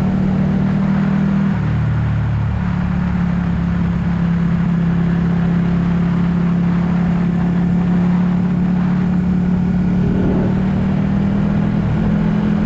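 Ducati 1199 S Panigale's Superquadro 90° V-twin engine pulling at a steady speed while riding, with a brief drop in the engine note about two seconds in. Wind and road noise run under it.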